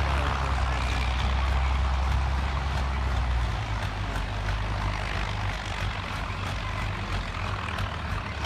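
David Brown 1210 tractor's naturally aspirated three-cylinder diesel engine running hard under load on a pull, held at a steady speed. Its deep low note weakens about three and a half seconds in, and the whole sound slowly gets quieter.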